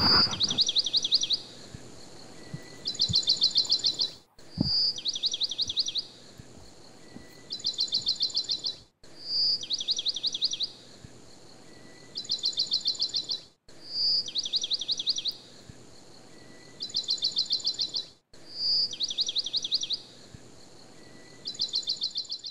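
A songbird's call played as an identical loop, five times, with a short break between repeats. Each repeat is a single high clear note followed by a fast run of high chips, then after a pause a second fast run of chips.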